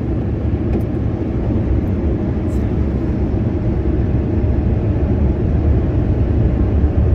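Touchless car wash's blower dryer running, a steady loud rush of air over the car.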